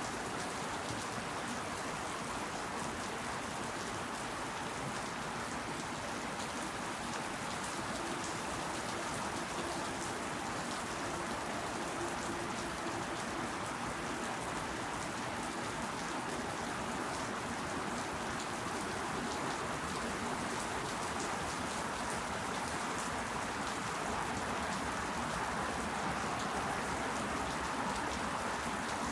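Steady rain falling: an even hiss, with individual drops ticking through it.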